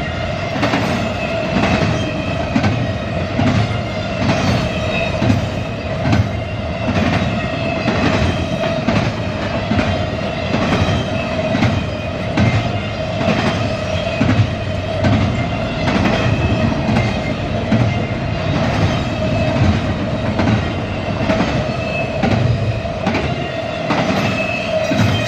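CSX container train rolling past, its cars' wheels clicking and knocking over the rail joints in a continuous run, with a steady tone held underneath.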